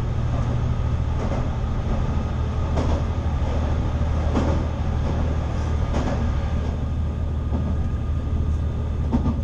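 Diesel railcar running along the line, with a steady low engine drone and the rumble of wheels on rail. Short clacks from the wheels crossing rail joints come about every second and a half. The train runs through a tunnel and comes out into the open near the end.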